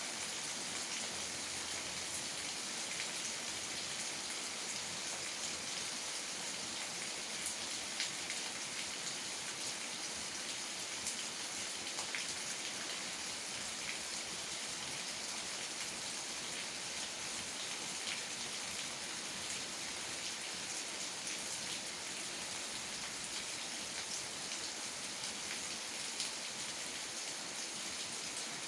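Steady rain falling, with scattered louder single drops ticking through it.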